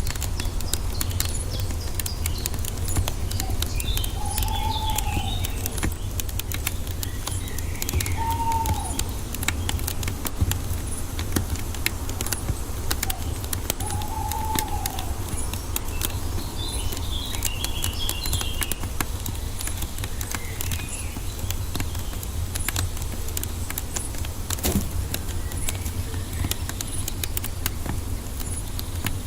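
Wood fire crackling with dense, irregular pops over a steady low rumble, with forest birds calling: a few short arching calls in the first half and bursts of high twittering.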